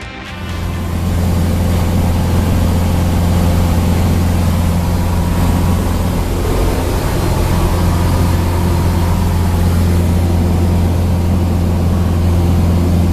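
Cessna 162 Skycatcher's four-cylinder Continental O-200 engine running steadily at a loud, even drone, coming up in the first second.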